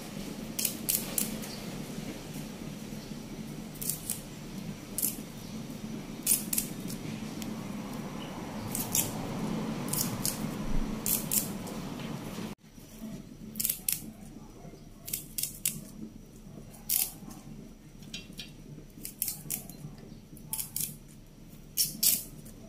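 Small leaves being picked and snapped off thin green stems by hand, a crisp snap or rustle every second or so. A low steady hum underneath drops away about halfway through.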